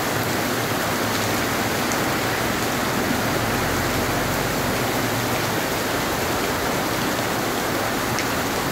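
Heavy monsoon rain falling in a steady downpour, an even hiss of rain on the street and surfaces.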